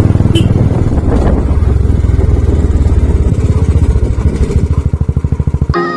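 Motorcycle engine running under way, a fast even train of deep firing pulses; the revs fall away near the end. Music cuts in just before the end.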